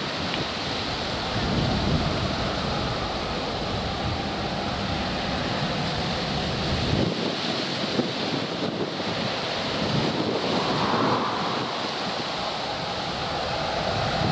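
Steady rushing roar of a Boeing 737-800's CFM56-7B jet engines on take-off, with gusts of wind buffeting the microphone. The roar swells briefly about ten seconds in.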